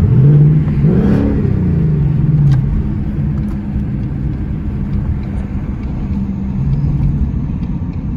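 Ford Mustang GT's V8 engine heard from inside the cabin. Its revs climb at the start and again about a second in, fall back within the next second or so, and the engine then runs steadily at road speed.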